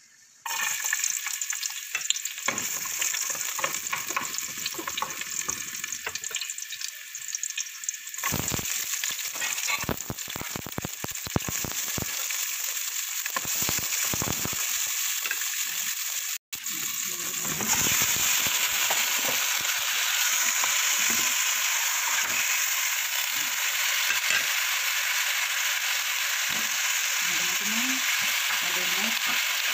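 Chopped red onion and tomato sizzling in hot oil in an aluminium stockpot while being stirred with a wooden spoon. The sizzle starts suddenly just after the start, breaks off briefly about halfway, and then comes back louder and steadier with chicken pieces frying in the pot.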